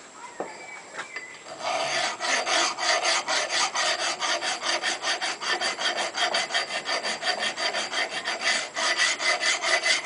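Hand file rasping along the edge of a steel railroad-track anvil in quick, even back-and-forth strokes, deburring the milled edges. The filing starts about two seconds in and pauses briefly near the end.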